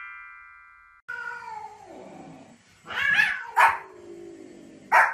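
A bright electronic chime fades out during the first second. Then a cat gives a long meow that falls in pitch, and a Pomeranian barks three times, sharp and loud, about three seconds in, just after, and again near the end.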